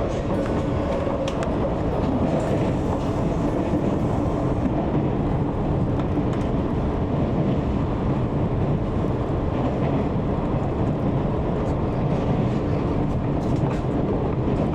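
185 series electric train running steadily: a continuous rumble of wheels on rail with a few faint clicks, heard from inside the passenger car.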